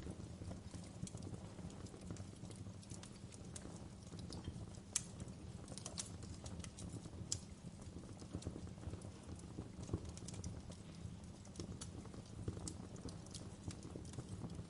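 Wood fire crackling in a fireplace: irregular sharp pops and snaps over a steady low rumble, with the loudest pops about five, six and ten seconds in.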